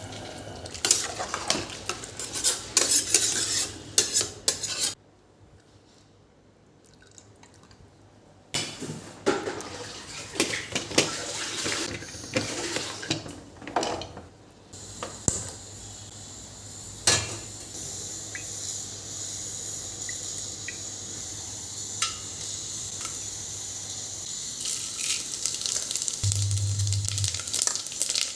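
Metal utensils clattering and scraping against pots and dishes, broken by a few seconds of near silence. From about halfway through, a steady sizzle of food frying in a pan, with occasional single clicks.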